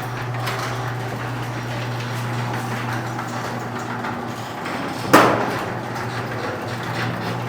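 Electric garage door opener raising an old sectional garage door: a steady motor hum under the rattle of metal rollers in the tracks, with one loud metal clank about five seconds in. The door is still loud even after its rollers and hinges were sprayed with lubricant.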